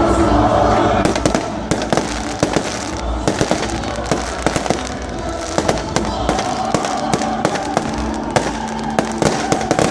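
Firecrackers going off in a rapid, irregular string of sharp pops and crackles, several a second.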